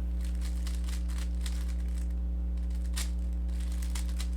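Faint, irregular clicking and rattling of a Rubik's cube being turned by hand, a slightly louder click about three seconds in, over a steady low electrical hum.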